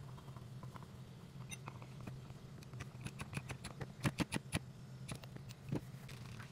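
A quick run of small sharp clicks and light taps, densest about four seconds in, over a faint steady low hum.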